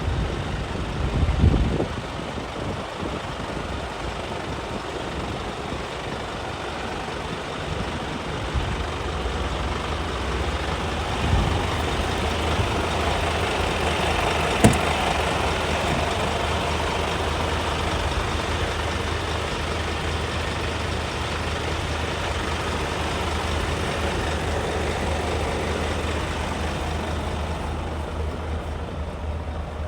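Scania P280 truck's five-cylinder diesel engine running steadily, with a couple of short knocks and one sharp click about halfway through.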